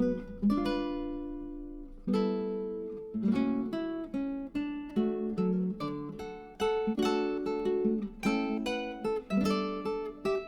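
Background music: acoustic guitar playing plucked notes and strummed chords that ring and fade.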